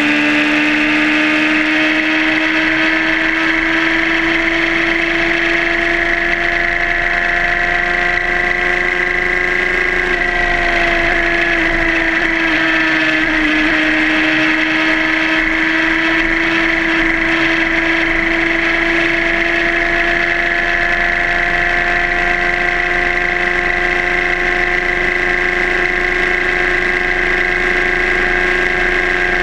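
Suzuki GSR600's inline-four engine running steadily at cruising revs, heard from on the bike. Its pitch climbs slowly for about ten seconds, dips briefly a few seconds later, then holds steady.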